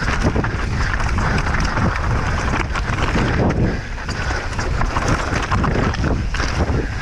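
Wind buffeting the microphone of a downhill mountain bike descending fast, with tyres rumbling over rough ground and the bike rattling and knocking.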